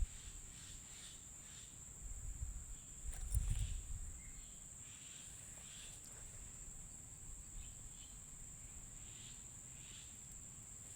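Steady high-pitched insect drone, typical of crickets, with faint short chirps repeating about twice a second. Low rumbles on the microphone come and go in the first four seconds.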